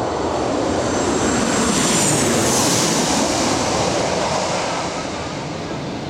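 Airliner passing low overhead: a rising rush of engine noise that peaks about two and a half seconds in, where a high whine falls in pitch, then fades away.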